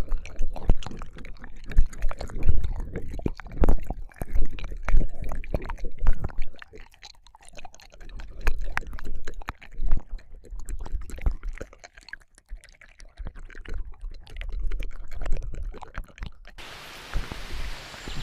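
Close-miked ASMR ear-licking sounds: irregular wet mouth clicks, smacks and slurps. A little before the end they cut off abruptly and give way to a steady outdoor hiss.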